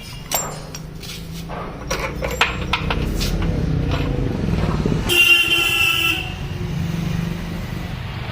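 A vehicle's low rumble builds, then a car horn sounds once for about a second. A steady low vehicle hum carries on after it.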